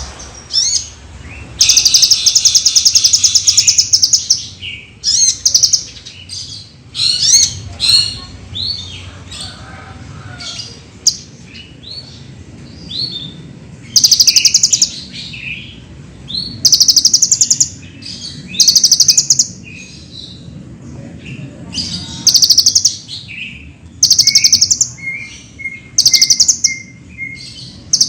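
Kolibri ninja (konin) sunbird singing a fast, varied song: loud rapid trills in bursts of a second or two, broken up by quick chirps and sweeping whistled notes. Near the end comes a short run of lower, evenly repeated notes.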